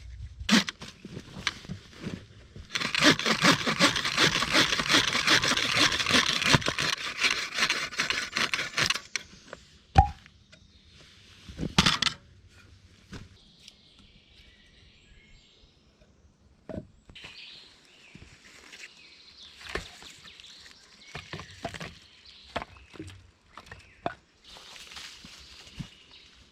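A steady rasping scrape lasting about six seconds, followed by a few sharp knocks and then scattered light rustling and taps.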